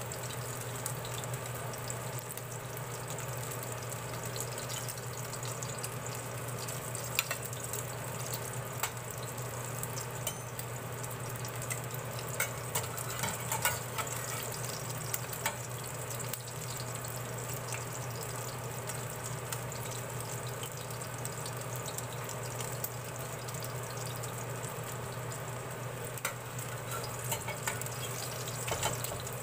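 Okoy (shrimp fritters) sizzling steadily as they shallow-fry in oil in a stainless steel pan, over a steady low hum. Short clicks and scrapes of a metal turner against the pan come in clusters about halfway through and again near the end as the fritters are turned.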